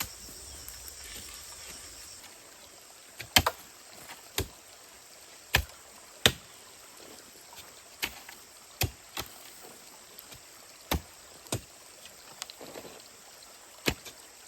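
Digging tool striking stony ground while a planting hole is dug, about a dozen sharp hits at an uneven pace, beginning about three seconds in. Faint high insect trilling is heard at the start.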